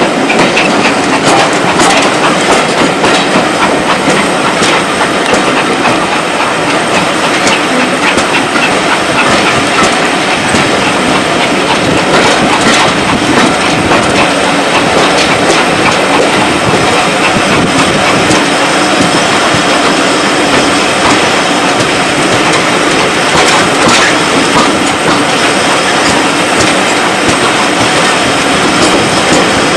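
Heritage railway train running along the track: a steady loud rumble of wheels on rail with a continual run of clicks from the rail joints.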